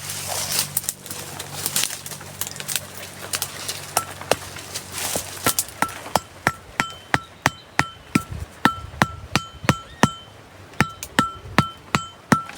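Repeated sharp blows from a metal tool, each with a short metallic ring, beginning about four seconds in and coming quickly, around three a second.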